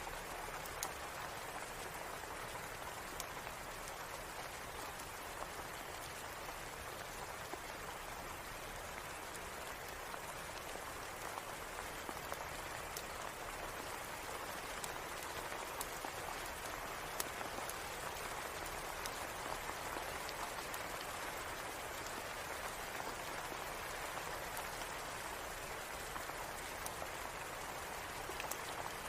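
Steady rain falling and pattering on a surface, an even hiss with scattered faint sharp ticks through it.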